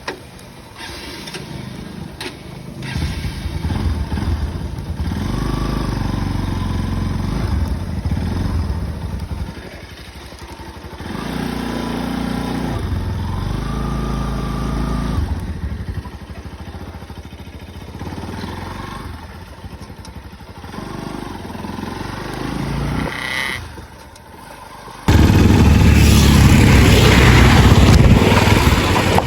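Motorcycle engine running and revving, its pitch rising and falling. About 25 seconds in, the sound changes suddenly to a loud, steady rush of wind on the microphone over the engine.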